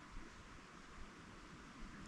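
Faint, steady hiss of flowing creek water, with light low rustling.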